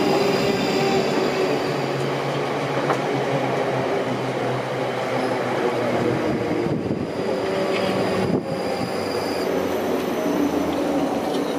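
Electric passenger train running through the station: a steady rumble of wheels on rail under a few steady motor tones, with a faint wheel squeal.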